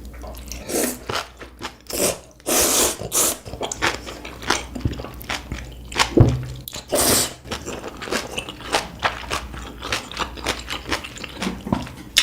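Close-miked eating of ramen: wet chewing in many short quick strokes, broken by several longer bursts of about half a second to a second that fit noodles being slurped.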